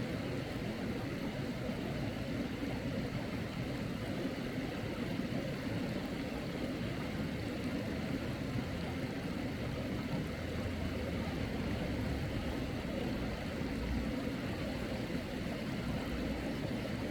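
Steady rushing noise of flowing mountain-stream water, even and unbroken throughout.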